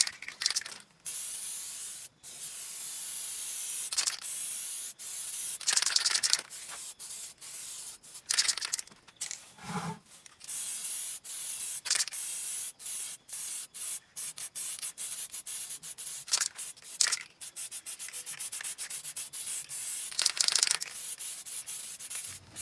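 Hand sanding of a motorcycle wheel rim with sandpaper, in repeated back-and-forth strokes, quickening to several strokes a second in the second half: surface preparation of the rim for repainting.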